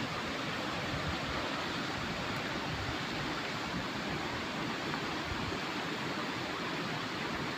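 River water rushing steadily, an even noise that stays level throughout.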